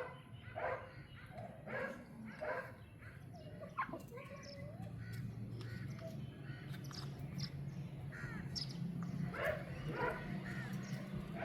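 Chickens squawking in repeated loud calls, a quick run of them at the start and two more near the end, with short high chirps in between. A steady low hum comes in from about the middle.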